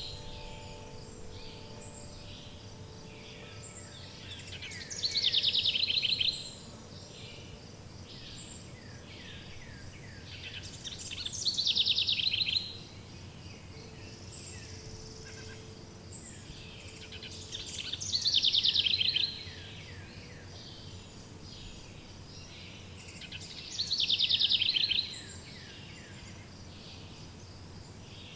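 Songbird singing: a loud, rapid trilled phrase that repeats four times, about every six and a half seconds, with fainter chirping from other birds in between over a steady faint background.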